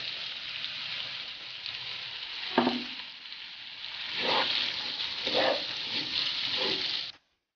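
Bitter gourd slices and onion masala sizzling in a kadai while a wooden spatula stirs them, with a few separate stirring strokes. The sound cuts off suddenly near the end.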